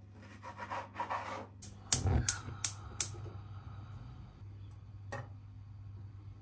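Kitchen handling sounds: a second or so of rubbing and scraping, then four sharp knocks in quick succession, and one more knock about two seconds later, over a steady low hum.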